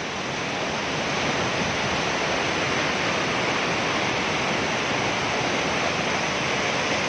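Waterfall's steady roar of falling water, a constant rushing noise without breaks.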